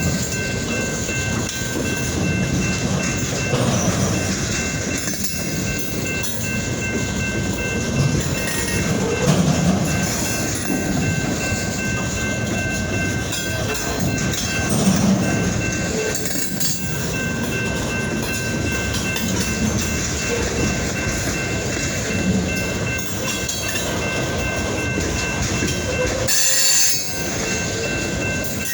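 Freight train switching: GP diesel locomotives rumbling while railroad cars roll and clank, with a steady high whine held throughout. A short louder burst comes near the end.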